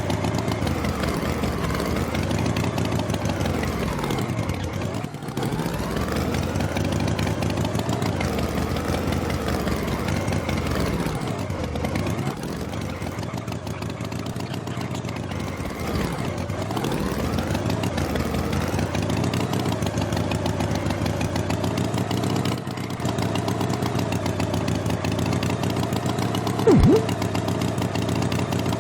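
An engine running steadily, with a brief sharp sound near the end.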